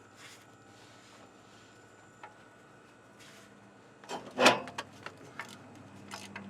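Hand tools working a starter mounting bolt: quiet fiddling and faint clicks, then a loud sharp metallic clunk about four and a half seconds in as the bolt is wrenched loose, followed by a few lighter clinks of tools on metal. A low steady hum comes in near the end.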